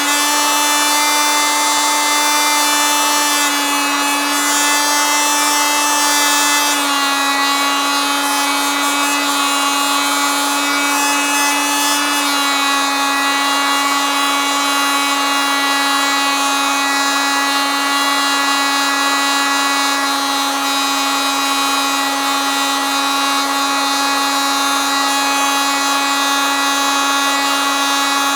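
Oscillating multitool running steadily with a high, buzzing hum. Its pitch dips slightly a few times, about 3.5, 7 and 12 seconds in.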